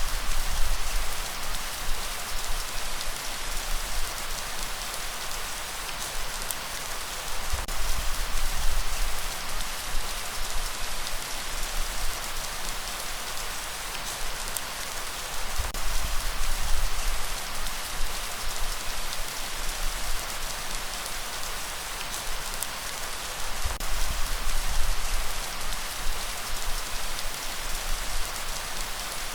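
Steady light rain hissing and pattering, with a low rumble that swells about every eight seconds.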